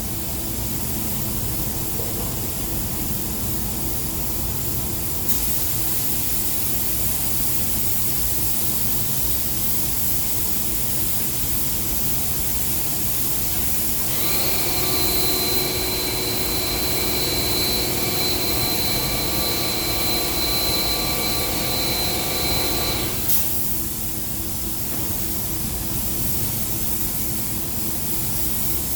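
Spray gun hissing in one long steady pass over a constant low motor rumble, stopping sharply near the end. About halfway through, a steady high whine joins the hiss and cuts off with it.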